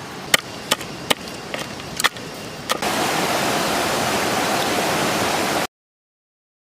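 Rushing river water: a loud, even noise that starts about three seconds in and cuts off abruptly about a second before the end, leaving silence. Before it come a few sharp clicks over a faint hiss.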